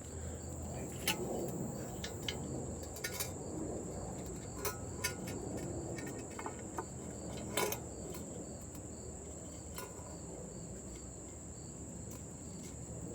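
Crickets chirring steadily in a continuous high-pitched drone, with scattered light clicks and taps from handling parts.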